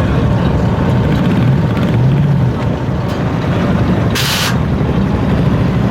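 V8 car engine running with a deep, pulsing exhaust rumble, with a short hiss about four seconds in.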